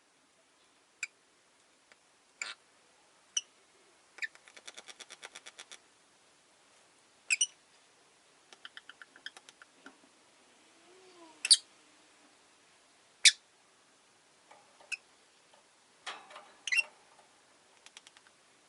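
Rosy-faced lovebirds calling: short, sharp, high-pitched chirps at irregular intervals, with two rapid runs of clicking notes, the first about four seconds in.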